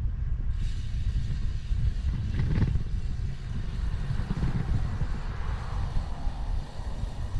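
Wind rumbling on a bike-mounted 360 camera's microphone while cycling, with a steady hiss of riding noise that comes in about half a second in.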